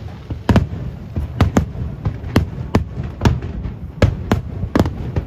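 Aerial fireworks shells bursting in quick, irregular succession, about a dozen sharp bangs in five seconds, each followed by a low rumble.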